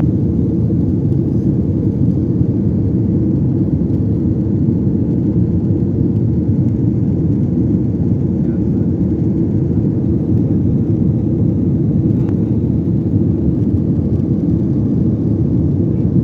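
Steady low rumble of an airliner in flight, jet engine and airflow noise heard inside the cabin.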